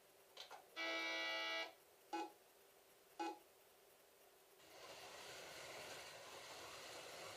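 Electronic beeps from slot car race-management software: a held tone of about a second, then two short beeps about a second apart. About two-thirds of the way through, a steady rushing noise sets in.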